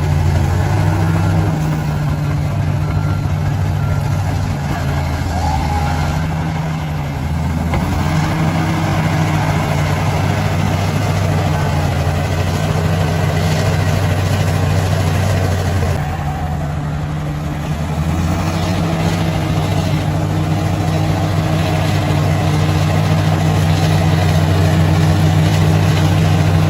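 Bulldozer's diesel engine running steadily under work, its low drone easing off briefly twice, about a quarter of the way in and again past the middle.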